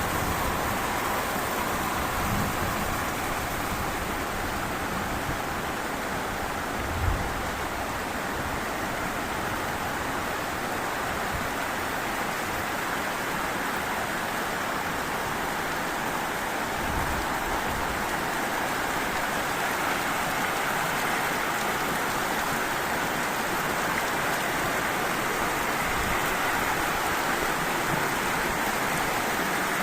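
Heavy rain falling steadily, an even hiss with a brief low thump about seven seconds in.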